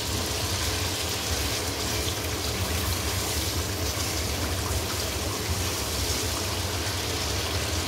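Biryani masala sizzling and bubbling in hot oil in a wok as it is stir-fried (bhuna) and stirred with a spoon: a steady, even hiss. A steady low hum runs underneath.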